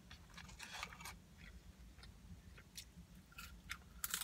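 Close-miked chewing of McDonald's french fries: faint scattered wet mouth clicks and smacks, with a louder cluster of them about four seconds in as another fry goes into the mouth.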